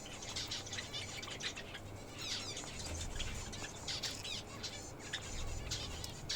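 Pet birds chirping, many short, quick calls overlapping, with some falling chirps.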